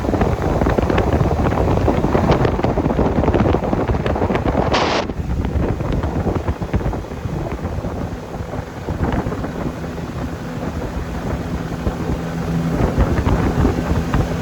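Wind buffeting the microphone over a boat's motor running. A steady engine hum comes through more plainly in the second half.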